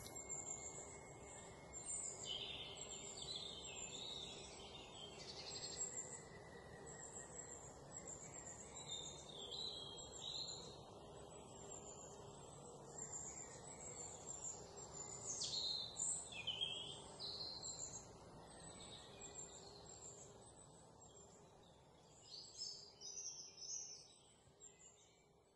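Faint chirping of small birds: many short, high, sliding chirps over a low steady background hiss.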